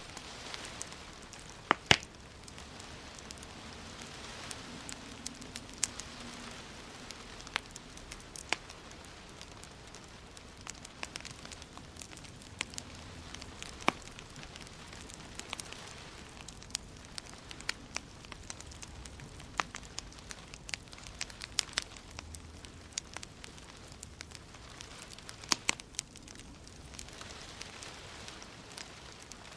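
Wood fire crackling: irregular sharp pops and snaps over a steady hiss, with the loudest couple of pops about two seconds in.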